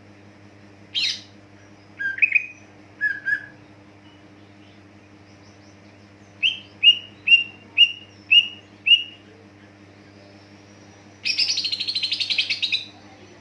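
A cucak ijo (leafbird) singing. It gives a few scattered whistled notes, then a run of six sharp notes at about two a second, and near the end a fast buzzy chatter lasting about a second and a half.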